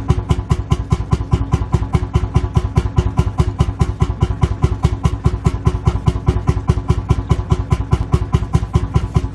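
Lanz Bulldog tractor's single-cylinder two-stroke engine idling, with a slow, even beat of about five or six firings a second.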